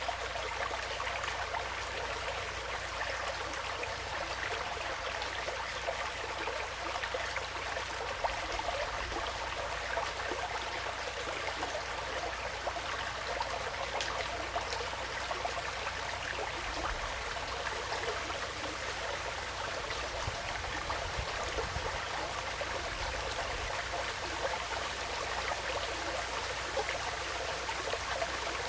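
Small woodland stream flowing steadily, a continuous babble and trickle of water over stones.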